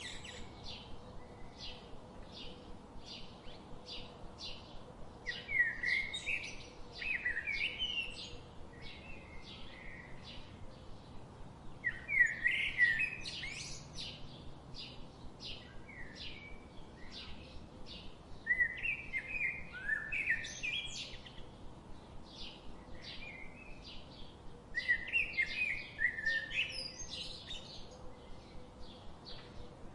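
Songbirds singing: a warbled song phrase of two or three seconds comes about every six seconds, over a steady series of short high chips at about two a second.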